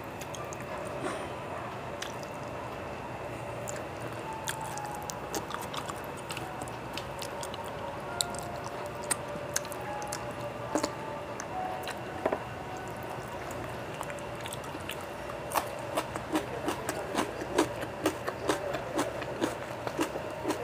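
Close-miked chewing and wet mouth smacks of a man eating rice, roti and fish curry with his fingers. Short clicks come scattered at first and grow more frequent and louder in the last few seconds, over a steady low background hum.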